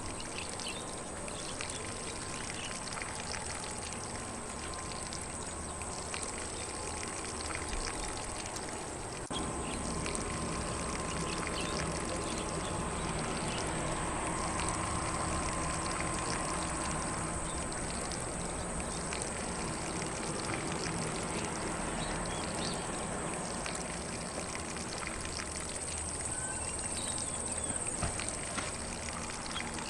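Lawn sprinkler spraying water across grass, a steady even hiss of spray that grows slightly louder about nine seconds in.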